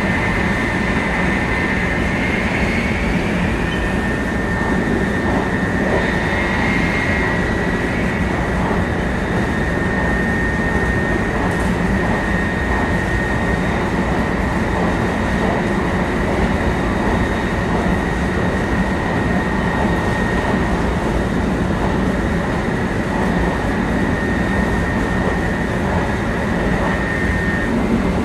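Running noise heard inside a 700 series Shinkansen motor car at speed: a steady rumble of wheels and air, with a steady high whine from the traction motors and inverter over it. A short rising tone comes through a few seconds in.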